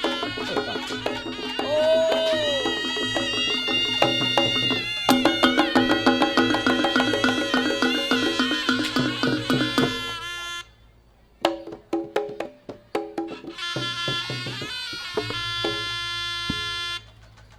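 Live campursari ensemble music for jaranan horse dance: sustained melodic tones over quick percussion strokes. About ten seconds in the full sound drops away, leaving scattered hits. It then returns briefly and cuts off near the end.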